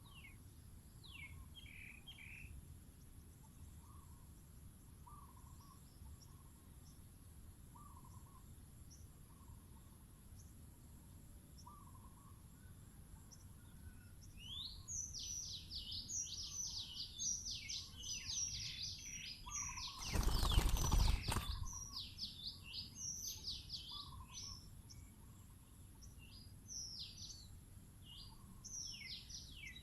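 Birds calling: soft low notes every second or two, then from about halfway a small bird's rapid high chirps, falling in pitch, in quick runs. About two-thirds of the way through, a loud rushing noise lasts about a second and a half.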